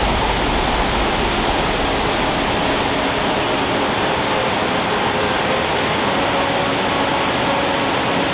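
Waterfall pouring, a loud, steady rushing noise that does not change.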